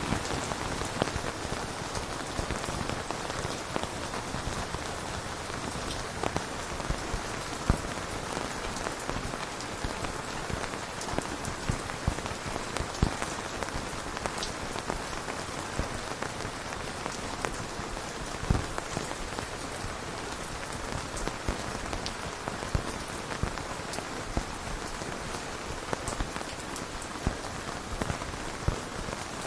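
Steady rain falling, a continuous hiss with scattered individual drops landing as sharp ticks.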